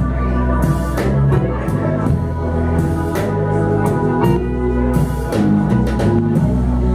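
Live blues band playing an instrumental stretch between sung lines: electric guitar over steady bass notes and drums.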